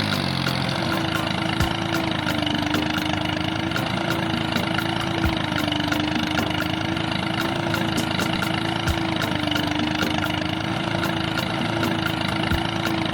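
A small motor running steadily with an even hum, and faint low knocks about every three and a half seconds.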